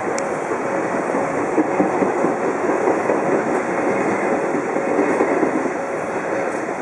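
An Odakyu Line electric train passing close by at a level crossing: a steady run of wheel-on-rail noise, a little louder in the middle.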